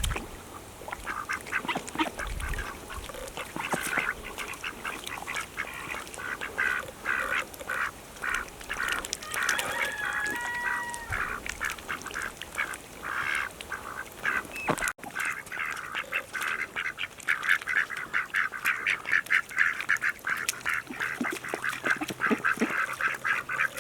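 Domestic ducks quacking and chattering in quick, continuous runs of short calls.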